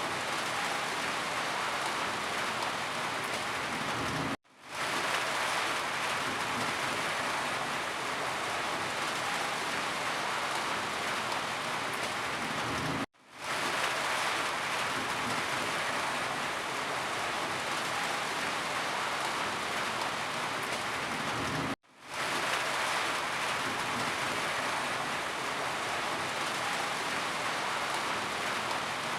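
Steady rain falling, an even hiss of many drops. Three times, about nine seconds apart, it cuts out suddenly for a split second and fades back in.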